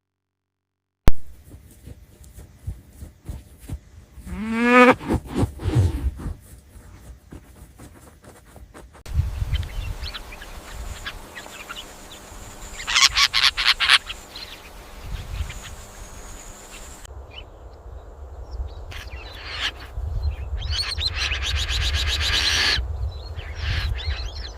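Animal calls: a rising cry about four seconds in, followed later by other short, sudden animal noises.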